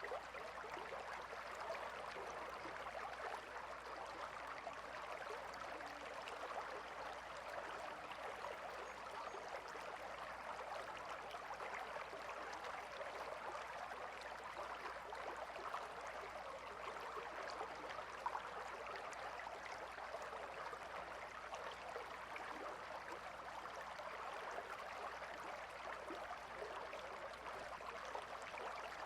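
A calm river flowing steadily, an even babble and rush of running water.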